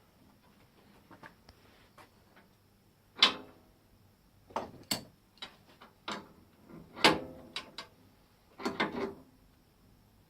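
Irregular metallic clanks and knocks of lathe parts being handled and tightened while a wood blank is secured on a wood lathe. There are about six sharp knocks with a short ring after each, the loudest about three and seven seconds in.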